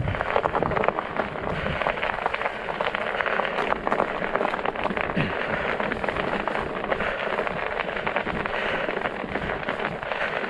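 Studded fat-bike tires rolling over ice, a dense continuous crackle of tiny clicks.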